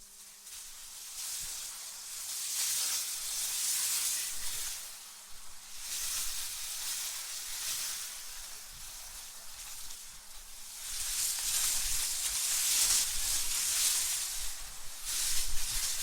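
Wind blowing in gusts: a high hiss that swells and fades every few seconds, strongest in the second half. A faint low hum underneath stops about eleven seconds in.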